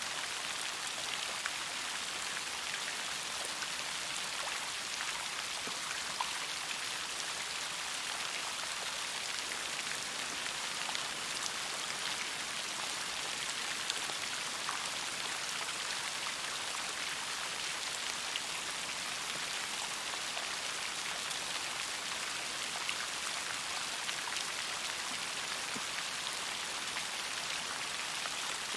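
Steady rain, with a dense even hiss and many small scattered drop ticks.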